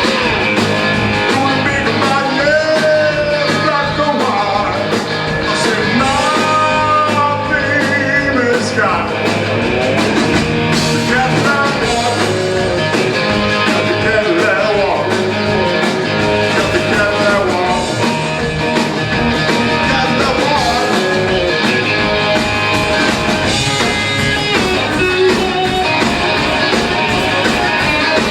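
A live rock and roll band playing an instrumental passage over a steady drum beat, with a lead line that bends up and down in pitch.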